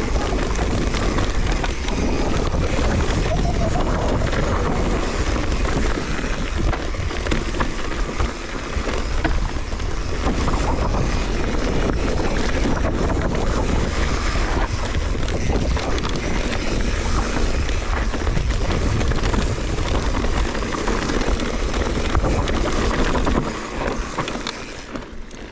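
Wind buffeting the microphone over a steady low rumble and rattle of riding along a rough trail. It drops away a little near the end.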